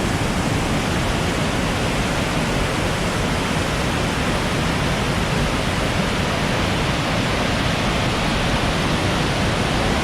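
A fast-flowing river rushing steadily, an even, unbroken rush of white water.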